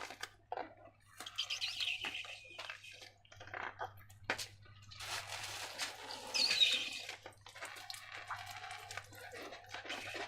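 Slime and rubber balloons being squeezed and handled: irregular wet squelches and sticky clicks, with a brief falling squeak about six and a half seconds in.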